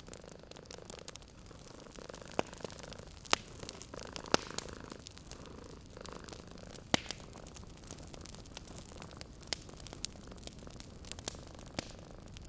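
Wood fire crackling, with scattered sharp pops (the loudest about three and four seconds in), over a cat purring.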